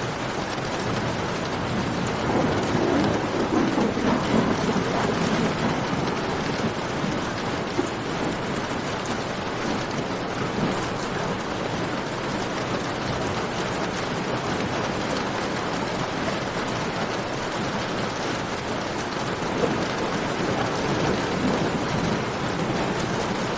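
Steady rain falling in a cave, with a campfire crackling in many small sharp ticks. A low rumble swells up twice, a few seconds in and again near the end.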